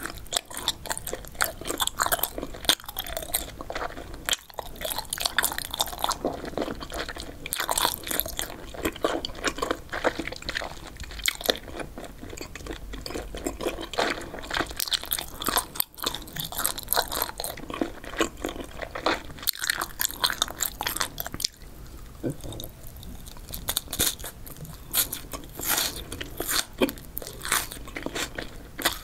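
Close-miked chewing of spicy boneless chicken feet and pork skin: dense, continuous crunching and chewing, with a short lull about two-thirds of the way through.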